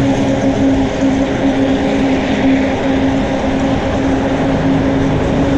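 A rough-sounding car engine droning steadily close by, over road and wind noise.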